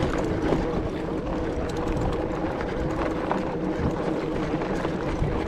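E-bike electric motor whining steadily under load on a climb, over the noise of tyres on a rough dirt road with scattered small knocks and rattles.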